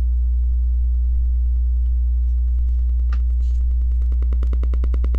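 Loud, steady low electrical hum with a buzz of evenly spaced overtones, mains hum in the recording. A faint click comes about three seconds in, and a faint, fast, even ticking begins near the end.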